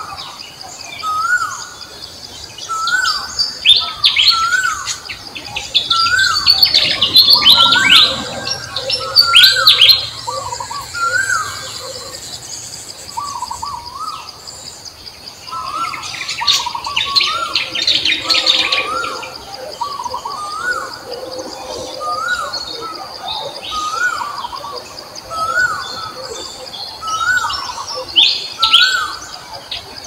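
Birdsong: one bird repeats a short note that rises and falls, about every second and a half, while other birds chirp in clusters over a steady high buzz.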